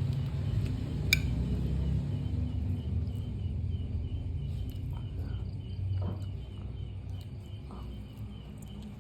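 Low rumble of a passing vehicle fading away, with an insect chirping in a rapid, even series of short high notes and a few soft clicks.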